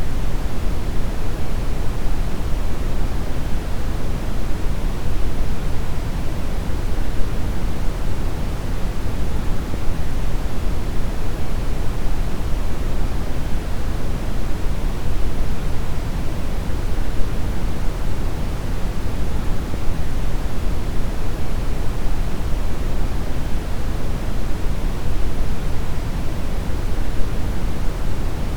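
Steady synthetic brown noise: a deep, even rushing hiss weighted toward the bass, with no pitch or rhythm and no change over time.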